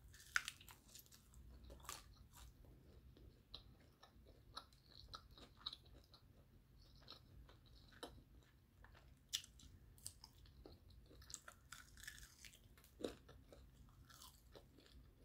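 Faint biting and chewing of crunchy fried chicken wings: soft chewing with scattered crisp crunches, a few of them louder.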